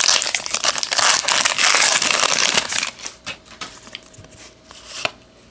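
Trading-card pack wrapper being crinkled and crumpled by hand, loud and dense for about three seconds. After that come a few light clicks of cards being handled.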